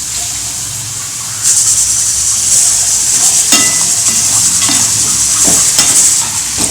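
Chicken pieces sizzling in a pan of fried onion, tomato and spice masala as they are stirred. The sizzle grows louder about a second and a half in, and the spoon knocks against the pan a few times.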